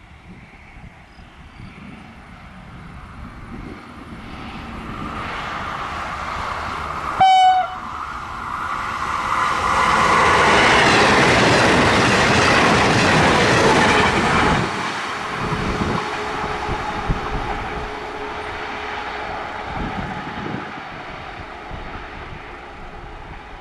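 IC2 passenger multiple unit approaching at speed, sounding one short horn blast about seven seconds in. It passes close by with loud rushing wheel and track noise, its wheels clicking over the rail joints, then fades as it runs away down the line.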